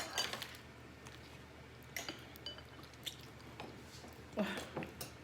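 Eating sounds: chewing and soft slurping, with a few light clicks of spoon or fork on a dish, in short scattered bursts.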